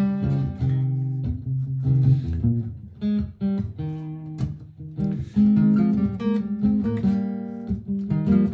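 Martin GPCPA4 steel-string acoustic guitar played through a looper, with plucked and strummed notes ringing over one another.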